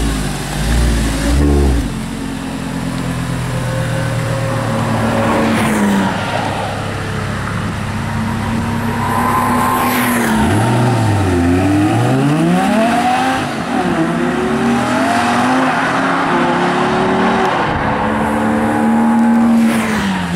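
Audi R8 V10 engine: two quick revs in the first couple of seconds, then the engine note climbing and dropping again and again as the car pulls away through the gears.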